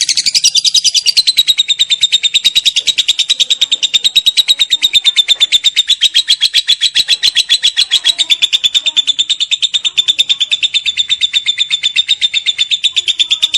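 Lovebird giving a long 'ngekek' chatter: an unbroken rapid trill of shrill notes at about ten a second. Its pitch slides down briefly at the start, then holds steady.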